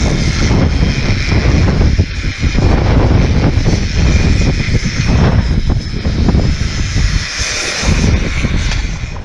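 Strong gusting wind buffeting the microphone: a loud low rumble that rises and falls unevenly, with a steady rushing hiss above it.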